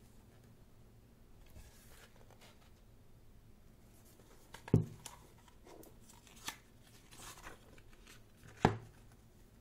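Paper pages of a thick photobook being handled and turned, with two sharp knocks about halfway through and near the end, and a softer tap and a brief swish in between.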